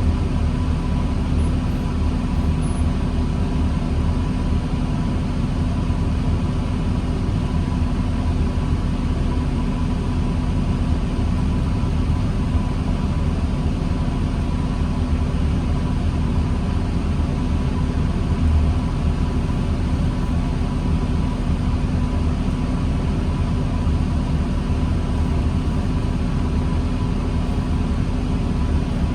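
Steady diesel engine drone and low rumble inside a 2009 New Flyer D40LFR city bus, with a constant hum and no change in pitch.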